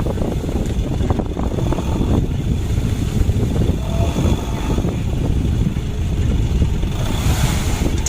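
Dump truck engine running with a steady low rumble.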